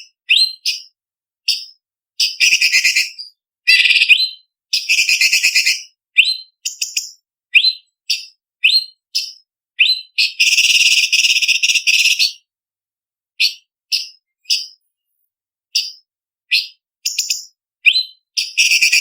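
Orange-bellied leafbird (cucak cungkok) singing: short, sharp upswept notes mixed with rapid chattering runs, with silent gaps between them. The longest run comes about halfway through and lasts about two seconds.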